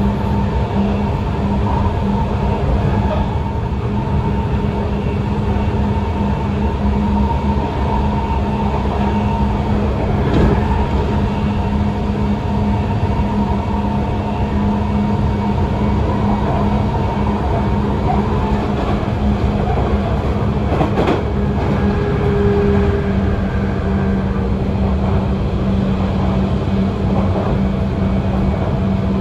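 Sotetsu 8000 series electric train with Hitachi GTO-VVVF drive running at speed, heard from inside the passenger cabin: a steady rumble of wheels on rail with a steady hum under it, and single rail-joint clacks about ten and twenty-one seconds in.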